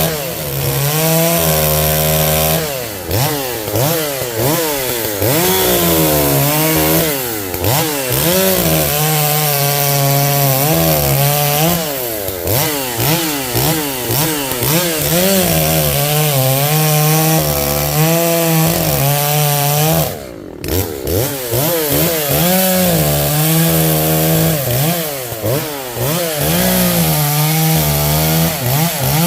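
Echo CS-590 Timberwolf chainsaw, a 59.8 cc two-stroke, cutting through tree limbs: the engine revs up and sags in pitch again and again as the chain bites into the wood, with a short drop in level about two-thirds of the way through.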